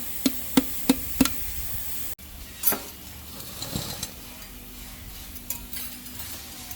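Hammer striking metal in a steady rhythm, about three ringing blows a second, stopping a little over a second in. After an abrupt break, quieter scraping and clinking of metal parts follows.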